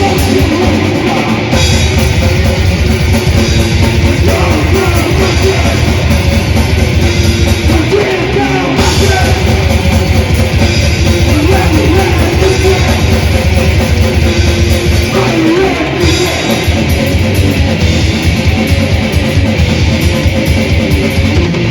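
Live death/thrash metal band playing: loud distorted electric guitars over fast, dense drumming with a steady wash of cymbals.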